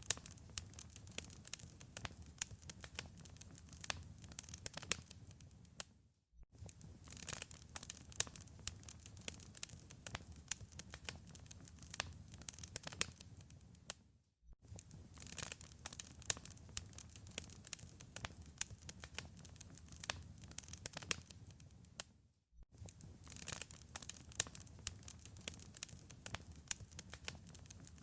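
Wood fire in a fireplace crackling, with a dense run of sharp pops and snaps over a soft low rumble. The sound cuts out for a moment about every eight seconds, three times in all.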